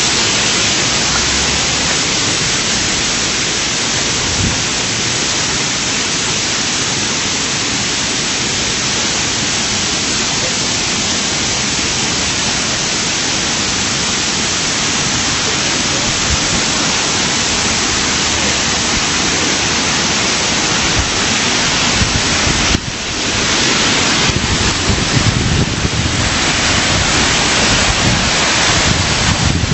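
Water rushing over a waterfall: a steady, loud, even hiss. About three-quarters of the way through it drops for a moment, then comes back rougher and more uneven.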